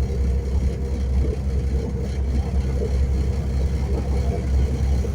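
Passenger train running, heard from inside the carriage: a steady, deep rumble.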